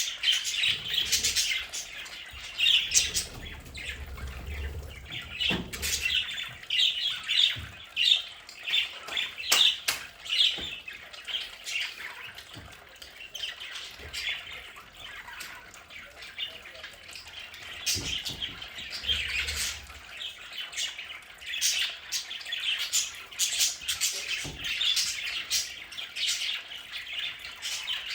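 A flock of budgerigars chattering and chirping continuously in a dense warble, with a few sharp clicks here and there.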